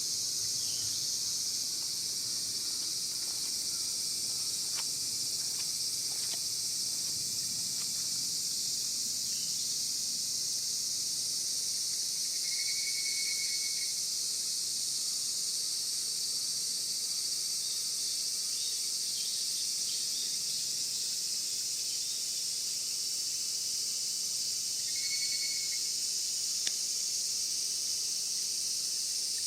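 Steady high-pitched insect chorus. Two short trilling calls stand out, about twelve seconds in and again near the end.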